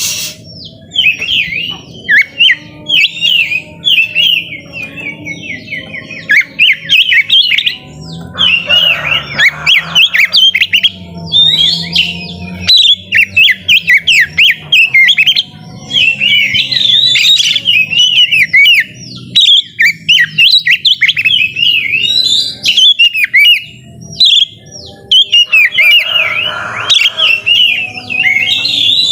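Oriental magpie-robin (kacer) singing a fast, varied full song of quick whistled notes, trills and chatter, with short pauses, and twice a harsher, noisier passage.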